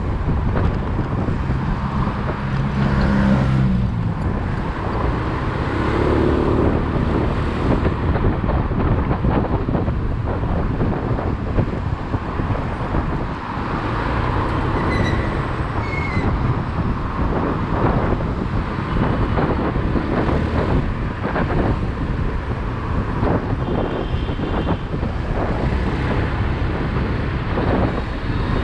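Riding a motorcycle through city traffic: steady road and traffic noise with vehicles passing, and a short pitched hum from a passing vehicle about two seconds in.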